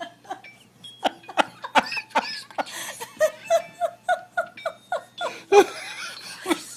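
People laughing in a run of short, evenly spaced bursts, about three a second.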